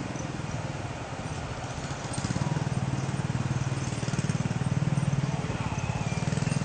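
An engine running with a rapid, even pulse, louder from about two seconds in.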